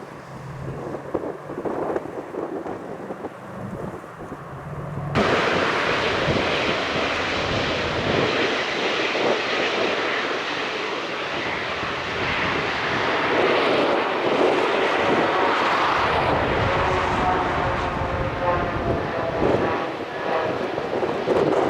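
Airbus A320neo jet engines running loud as the airliner comes in to land: a dense rumbling noise that jumps up abruptly about five seconds in, with a whining engine tone coming through later on.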